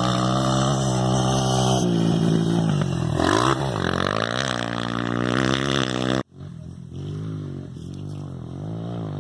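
Motocross dirt bike engine revving, its pitch rising and falling over and over. About six seconds in it cuts off abruptly, and a fainter engine carries on, still rising and falling.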